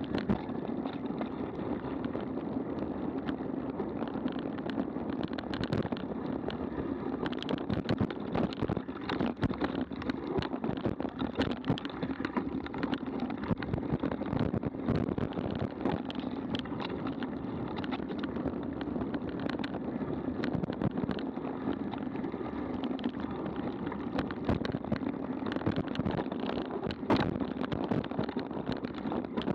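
Mountain bike riding over a rough dirt trail: a steady rumble of tyres and wind on the action camera, with frequent irregular rattles and knocks from the bike jolting over bumps.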